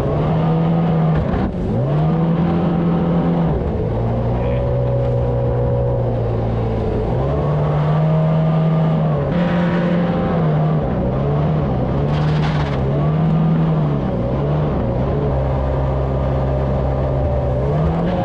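Jet boat engine running hard, its revs holding steady for stretches, dropping and climbing back several times, with a quick run of rises and falls in the middle.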